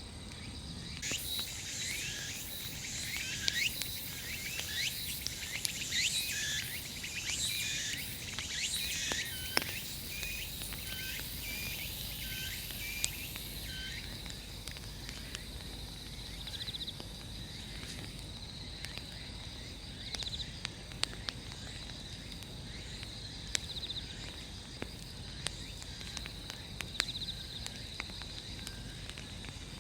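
Summer insect chorus with a steady high trill. For the first half a series of repeated falling chirping calls runs and fades out, and sharp pops from the burning wood of the bonfire sound now and then.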